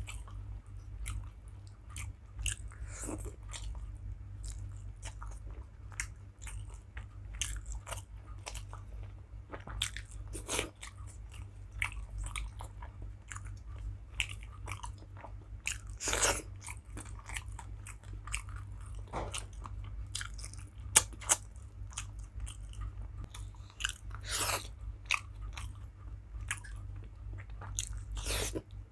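Close-up eating sounds: a person chewing and biting, with irregular sharp clicks and crunches, over a steady low hum.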